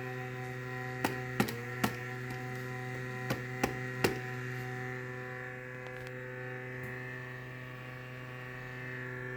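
Lenovo Legion 5 Pro gaming laptop's cooling fan giving a steady buzzing hum with many overtones, the buzzing noise its owner is showing. Six sharp clicks sound over it in the first four seconds or so.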